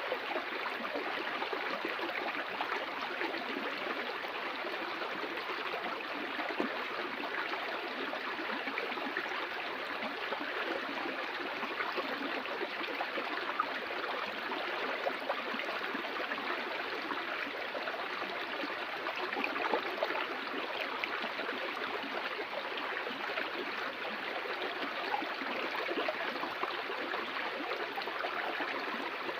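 Water flowing and splashing steadily over rocks in a stream.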